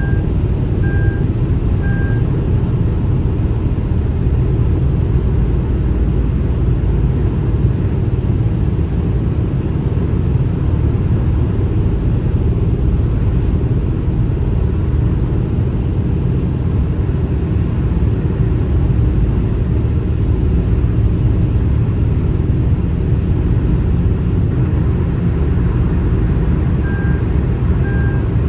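Steady low rumble of car and highway road noise, unbroken throughout. A short beep repeats about once a second at the start and again near the end.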